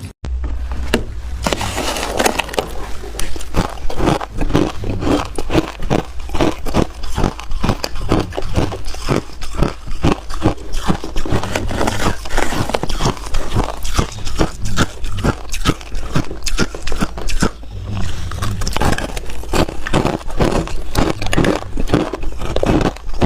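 Hard ice being chewed close to the microphone: dense, continuous crunching and cracking, over a steady low hum.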